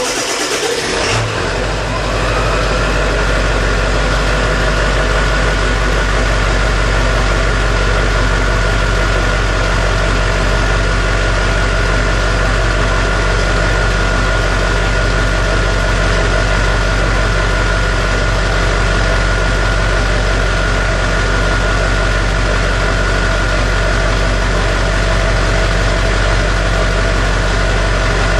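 Truck engine catching about a second in, then idling steadily, with a whine that rises and levels off about two seconds in.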